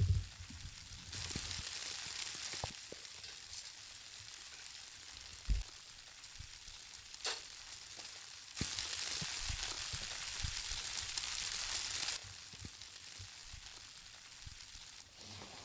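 Steak sizzling in a hot pan, a steady hiss that swells louder twice, with a few soft low knocks and one sharp click.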